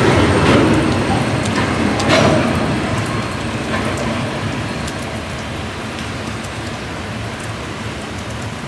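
Tail end of a freight train rolling past, its wheels knocking a few times in the first couple of seconds, the rumble fading as the train moves away, leaving a steady hiss of rain.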